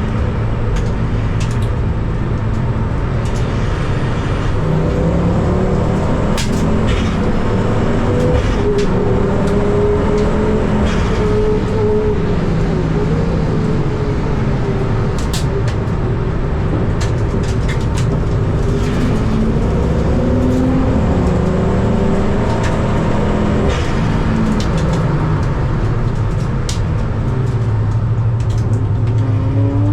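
Ford Focus ST race car's engine heard from inside the cabin, its revs rising and falling through the gears over a steady road and tyre rumble, with scattered sharp clicks.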